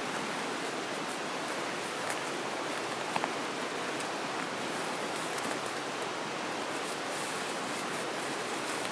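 Steady rushing of a river flowing past, an even wash of water noise, with a short double tick about three seconds in.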